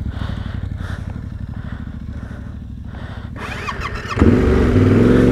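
Motorcycle engine running at a steady low pulse, then revved up sharply and much louder about four seconds in as the bike sets off.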